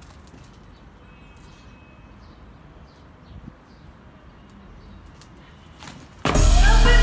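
Faint outdoor ambience with a few small birds chirping now and then. About six seconds in, loud music cuts in suddenly.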